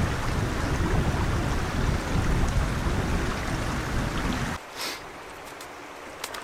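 Blizzard wind gusting hard against the microphone, a heavy low rumble, cut off abruptly about four and a half seconds in. After that comes a much quieter stretch with a few faint sharp clicks.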